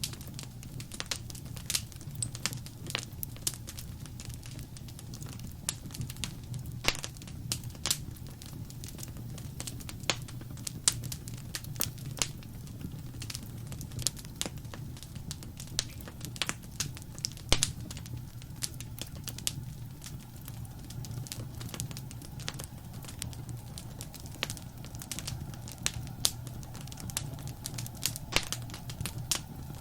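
Fireplace fire crackling: irregular sharp pops and snaps of burning wood over a steady low rumble of the flames.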